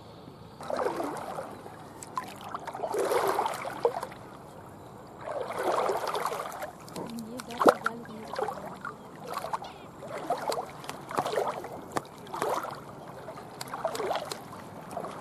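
Water splashing in repeated swishing strokes, slow at first and then about once a second. A single sharp click comes about halfway through.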